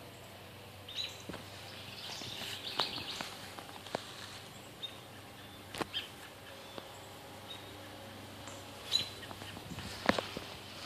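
Birds chirping in short, scattered calls, with a faint steady low hum underneath and a few sharp clicks, the loudest about ten seconds in.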